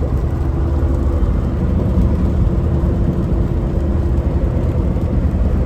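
Steady drone of a semi truck's diesel engine and road rumble heard inside the cab while it drives a 5% grade on a wet highway.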